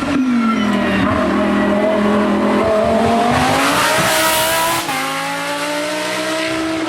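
Hill-climb race car engine accelerating hard: the revs dip briefly at first, then climb for several seconds, drop sharply at an upshift about five seconds in, and climb again.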